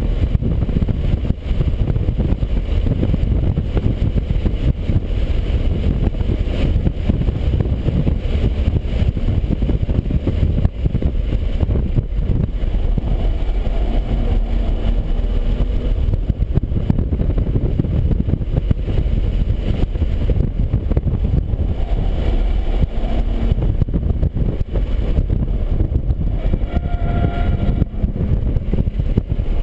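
BMW 135i's turbocharged straight-six driving at speed, under heavy, continuous road and wind rumble, with a few faint tones coming and going in the second half.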